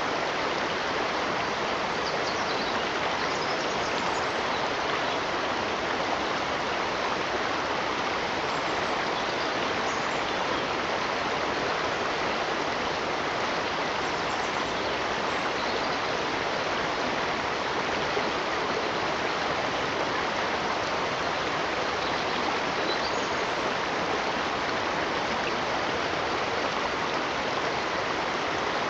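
Running water of a stream: a steady, even rush that holds constant throughout.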